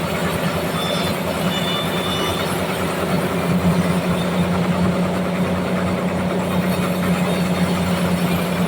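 Sawmill machinery running, with a steady low engine hum.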